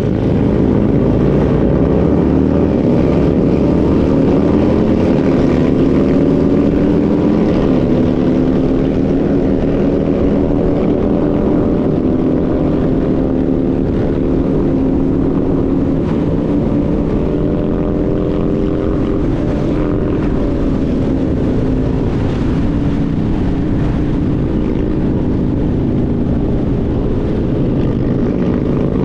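Motorcycle engine running at road speed, heard from on board, its pitch slowly rising and falling with the throttle, under a steady rush of wind noise.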